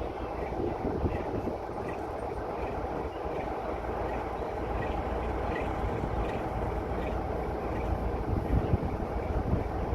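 A heritage diesel train running on the line, a steady rumbling noise, with wind gusting on the microphone.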